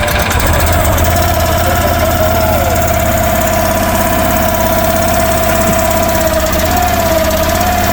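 Electric starter motor cranking the Future FT15 mini excavator's carbureted gasoline engine in one long steady run with a whine, without the engine catching. The cranking is drawing fresh fuel into a carburetor that was just drained of suspected bad gas.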